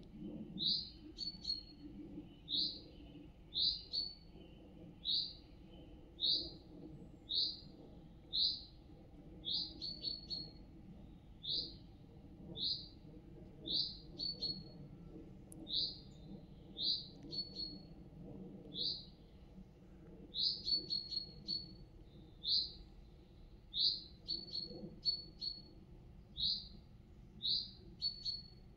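A small bird calling, one short high note repeated about once a second with a few slightly longer gaps, some notes followed by a couple of quick ticks.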